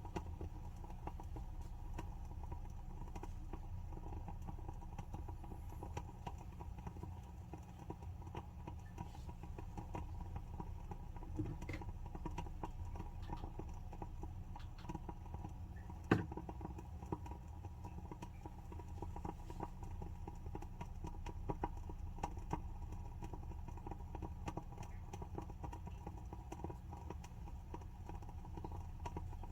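WoodWick candle's wooden wick burning, giving soft, irregular crackles and pops, with one louder pop about halfway through, over a steady low hum.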